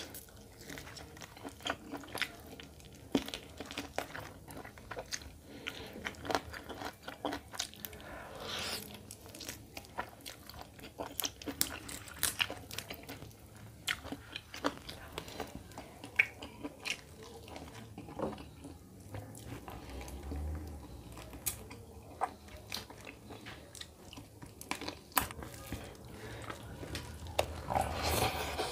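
Close-up mouth sounds of eating chicken curry and rice by hand: chewing and biting, with many irregular wet clicks and smacks.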